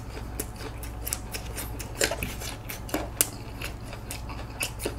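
Close-miked eating of a crisp, breadcrumb-fried Korean hot dog: a run of irregular sharp crunches and mouth clicks as the fried batter is bitten and chewed, the loudest about two and three seconds in.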